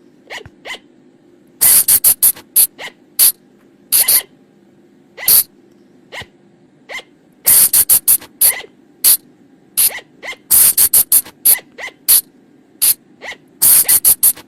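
Sunda flying lemur (colugo) calls: short, sharp, high-pitched squeaks coming in quick bunches of several, about six bunches a second or two apart, over a faint low hum. A recording of the kind played at night to lure colugos in.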